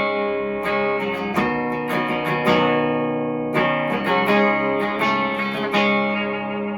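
Electric guitar through a Hiwatt Hi-5 amp's clean channel, boost pedal off: chords picked and strummed in a crisp, chimey clean tone, the last chord left to ring near the end.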